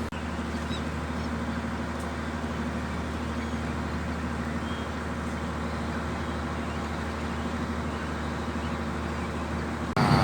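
Tour boat's engine running steadily, a low, even drone.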